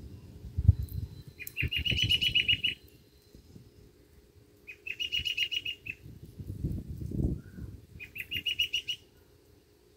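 A bird singing: three separate rapid, high trills, each about a second long, roughly three seconds apart. Low rumbling thumps come in under it about half a second in and again around seven seconds, the first being the loudest sound.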